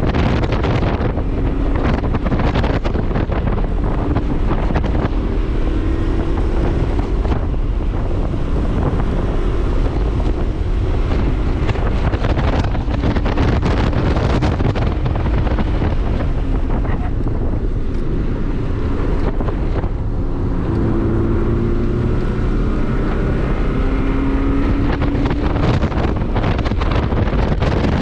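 Heavy wind buffeting on the microphone over the 2001 Subaru 2.5RS's 2.5-litre flat-four engine, whose note rises in pitch several times as the car accelerates.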